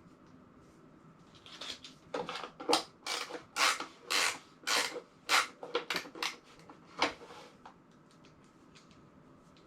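Rummaging and handling of gear: a quick run of about a dozen scraping and rubbing strokes starting a second and a half in and stopping about seven seconds in.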